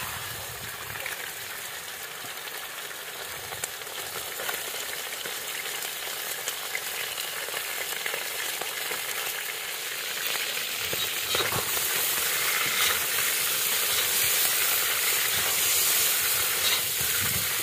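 Chicken wings sizzling and frying in hot oil in a cast-iron kazan, with a metal spatula scraping and knocking as they are turned. The sizzle grows louder about two-thirds of the way through.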